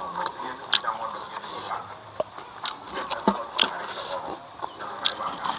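Close-miked eating sounds: a man chewing a mouthful of smoked catfish and rice eaten by hand, with wet lip smacks and mouth clicks a few times. A faint steady high-pitched hum runs behind it.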